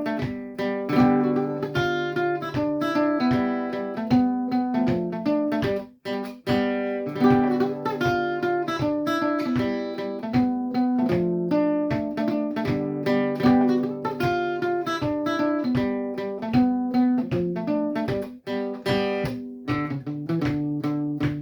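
A reinlender, a Norwegian folk dance tune, played solo on a plucked string instrument, with a steady bass-and-chord accompaniment under the melody. It stops briefly about six seconds in, and again for a moment near the end.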